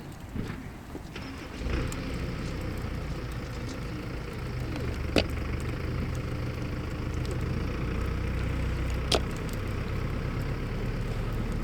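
An engine running steadily at idle, a low hum that comes in about two seconds in, with two sharp clicks later on.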